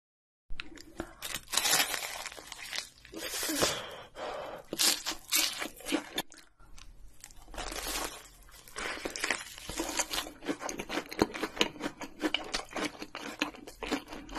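Close-up eating sounds of a breaded, deep-fried corn dog dipped in cheese sauce: crunching bites into the crust and chewing, with many fast small clicks in the second half. The sound begins about half a second in.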